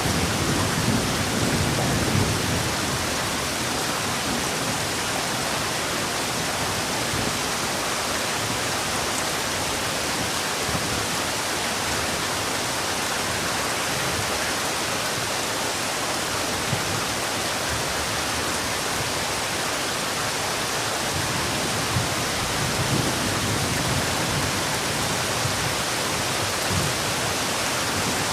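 Heavy rain falling in a steady, dense hiss. A low rumble of thunder dies away in the first two seconds, and a fainter low rumble comes and goes about three quarters of the way through.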